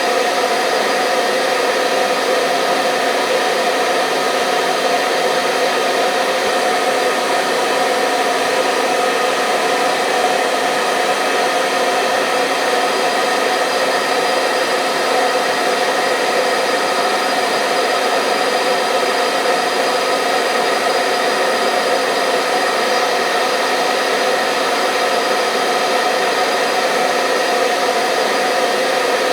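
Hair dryer running steadily, a continuous whooshing roar with a steady motor hum in it, used as soothing white noise to lull babies to sleep.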